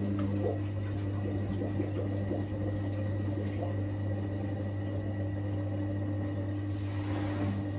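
Hoover New Wave Plus 5 WA1300 washing machine early in its final spin cycle: a steady low hum with water gurgling and splashing, the drain pump running while the drum turns.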